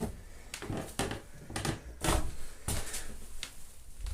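Irregular knocks and bumps inside a small boat cabin, about seven in four seconds, as someone moves about and handles things.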